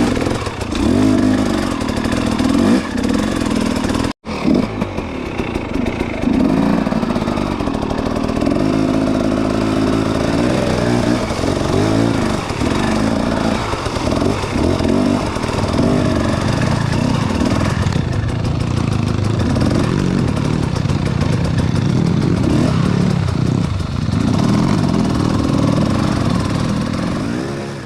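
Motorcycle engine running on the move, its pitch rising and falling with the throttle. The sound cuts out briefly about four seconds in.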